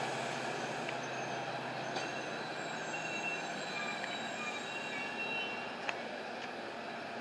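Metra commuter train rolling slowly past the platform: a steady rumble with thin, high wheel and brake squeals coming and going, and a sharp click about six seconds in.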